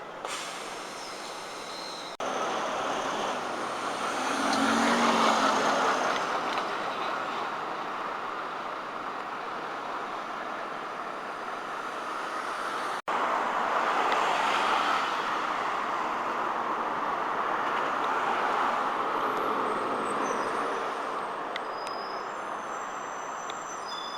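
Road traffic on a city street: steady vehicle noise with one vehicle swelling past about five seconds in and another about fourteen seconds in. The sound cuts off abruptly twice.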